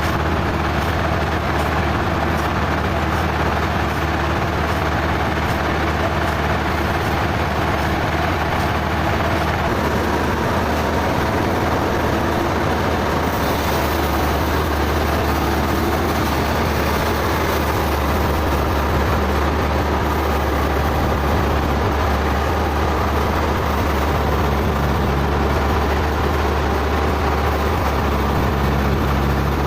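Sawmill machinery running steadily with a loud, low engine-like hum; the tone shifts about ten seconds in and a higher hiss joins about halfway through.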